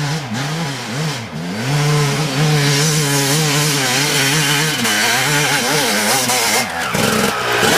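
Dirt bike engine revving hard in second gear on a hill climb, the revs rising and dipping, then held steady for a few seconds in the middle before wavering again.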